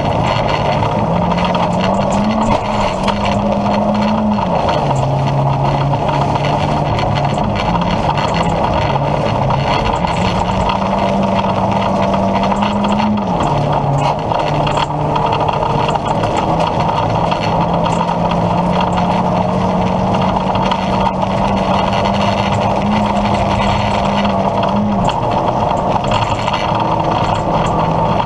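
Opel Astra G rally car's 1.6-litre four-cylinder engine running hard at high revs, heard inside the cabin. It holds its pitch for long stretches, climbs, and drops sharply a few times at gear changes or lifts, over constant road and tyre noise.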